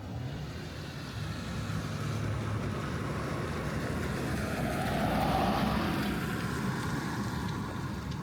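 A car passing by on a wet street: the hiss of its tyres swells to a peak about five seconds in, then fades away.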